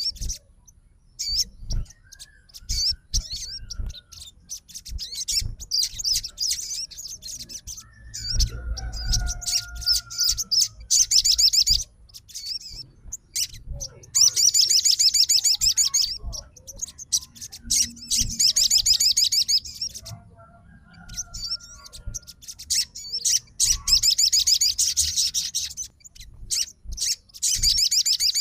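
Sogon bird singing in its aggressive fighter song: fast, high, dense trills in bursts of one to two seconds, over and over with short pauses, the kind of calling used to challenge a rival.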